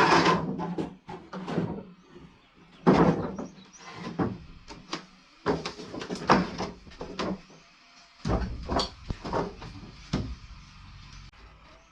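Irregular knocks and scrapes from hand building work: about a dozen uneven bangs and scraping drags, with a low rumble starting a little past the middle.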